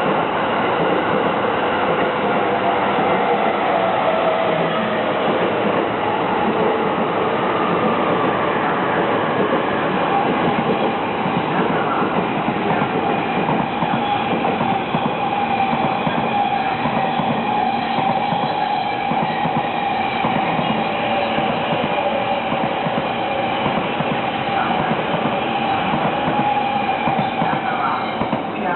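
Trains running through a station, with a continuous rumble and clatter of wheels on rails. A whine sounds over it, falling in pitch over the first few seconds and then holding steady.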